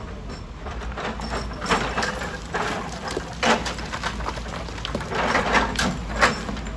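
Heavy quarry machinery working rock: irregular knocks and clatter of stone over a steady low machine rumble.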